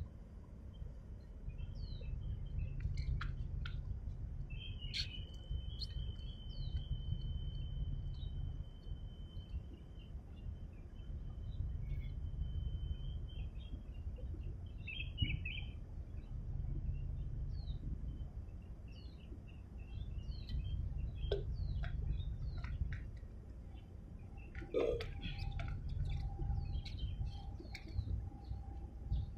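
Small birds chirping and whistling again and again, one holding a steady whistle for a few seconds, over a low rumble that swells and fades every few seconds.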